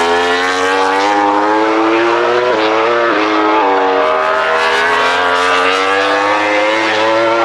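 MotoGP racing motorcycle's four-stroke engine at high revs, its pitch climbing under acceleration. About two and a half to three and a half seconds in there are three quick upshifts, each a sharp drop in pitch, and then it climbs again.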